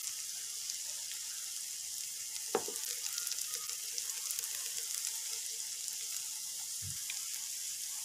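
Potato kababs shallow-frying in hot oil in a wide pan: a steady sizzle with fine crackling. A silicone spatula nudging the kababs gives a light click about two and a half seconds in and a soft knock near the end.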